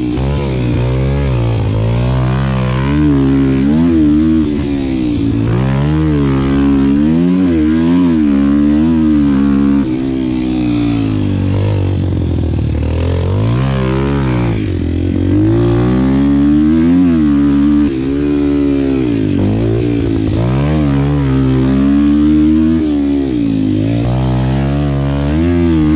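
Yamaha four-stroke pit bike engine being ridden hard, revving up and easing off over and over every second or two as the bike accelerates out of corners and slows into them.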